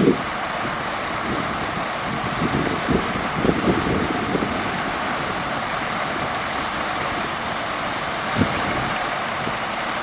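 Heavy earthmoving machinery running steadily, a diesel engine's drone with a hissy, noisy edge, broken by a few short low thumps around three to four seconds in and again about eight seconds in.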